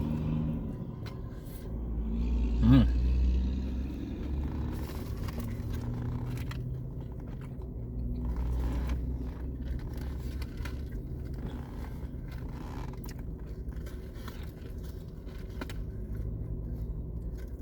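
Low steady rumble inside a car's cabin, with small clicks, rustles and chewing noises from eating fast food. A brief vocal sound comes about three seconds in.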